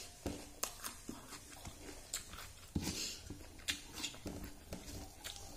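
Close mouth sounds of a person eating rice and fish curry by hand: wet chewing and lip smacks as irregular clicks, with a breathy sniff about three seconds in.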